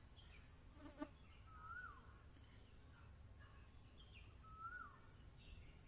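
Faint outdoor quiet in which a bird twice gives a short whistle that rises then falls, about three seconds apart, with a few fainter high chirps and a single click about a second in.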